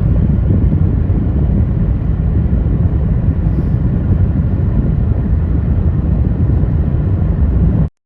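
A car on the road: a loud, steady low rumble of road and wind noise. It cuts off abruptly near the end.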